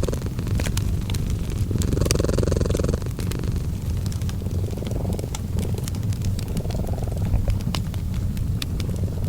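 Cat purring, a continuous low rumble rising and falling in slow swells every two to three seconds with its breathing. A fireplace crackles and pops over it with many small sharp snaps.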